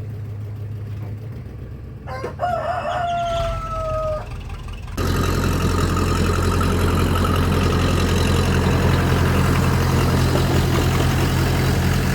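A rooster crows once, a single falling call about two seconds in, over a low engine hum. About five seconds in, a louder engine takes over suddenly: a Case 450 crawler dozer running steadily.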